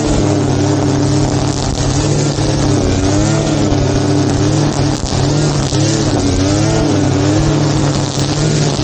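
Small petrol engine of a grass-cutting machine running steadily under load, its pitch wavering up and down about once a second as it cuts.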